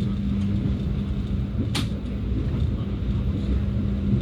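Passenger train running: a steady low rumble with a constant hum, and one brief sharp hiss a little under two seconds in.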